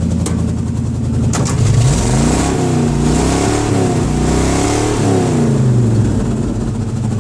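Vehicle engine with its stock exhaust rotted off, running loud and raw: idling, revved up twice in the middle, then dropping back to idle.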